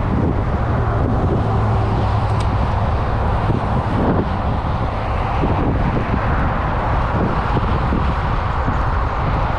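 A vehicle on the move: steady road and wind noise with a low, even engine hum.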